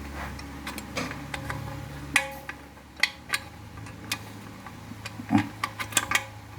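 Metal parts of a Ford 5R55S automatic transmission clinking and knocking as it is taken apart by hand, with the brake band being worked out. About a dozen sharp, irregularly spaced clicks and taps sit over a low steady hum.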